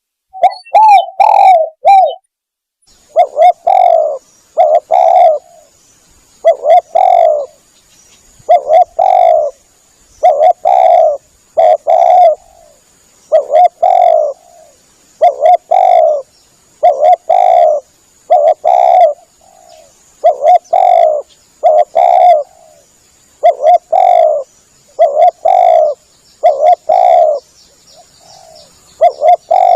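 Spotted dove (tekukur) lure call: phrases of two or three low coos repeating about every two seconds. A faint, steady high tone runs behind the calls from about three seconds in.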